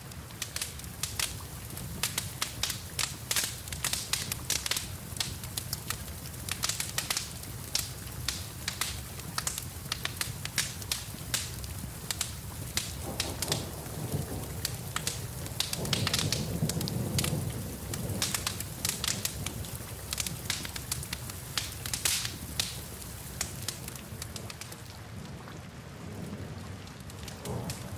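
Wood fire crackling in a fireplace with a steady patter of rain, the crackle coming as frequent sharp pops. A low rumble swells for a few seconds around the middle.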